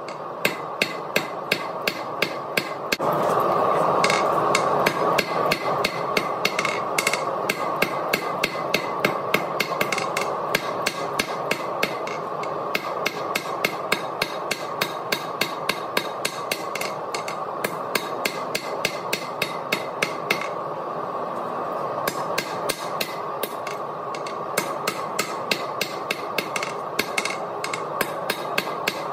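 Blacksmith's hammer striking a 1/2-inch square steel bar on an anvil, a steady run of blows at about three to four a second with a short pause about two-thirds of the way through. A steady rushing noise runs underneath.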